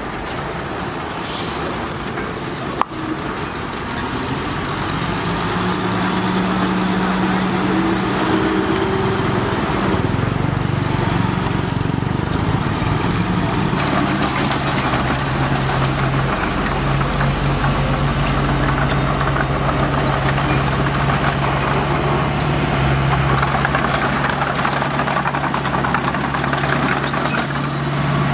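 Heavy diesel earthmoving machine engine running, growing louder and shifting pitch about five seconds in as it takes on load, then holding a steady drone. One sharp click about three seconds in.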